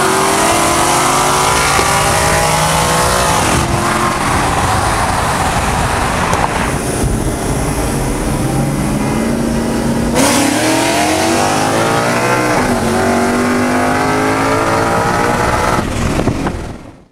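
Performance cars racing at full throttle, their engine notes climbing in pitch through each gear and dropping at the shifts. Partway through there is a cut to a run heard from inside a car, a Paxton-supercharged Mustang racing a cam- and bolt-on Camaro. The sound fades out at the very end.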